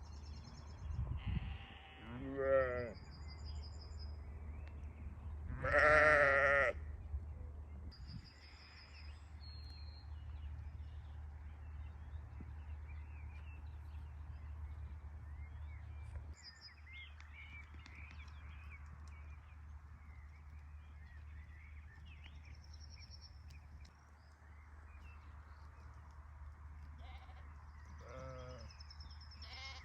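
Sheep bleating: a few wavering calls, the loudest about six seconds in and another near the end. Small birds chirp faintly between the calls.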